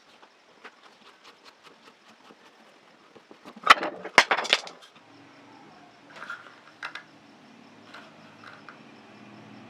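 Light metal clicks and clinks from handling parts of a rusty vintage oil can, then a loud metal clatter about three and a half seconds in. A low steady hum starts about a second later.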